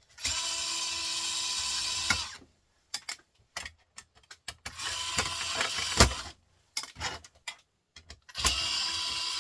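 A handheld power screwdriver running in three steady bursts of about one and a half to two seconds each, backing screws out to take a printer part apart, with small clicks of handling between the bursts.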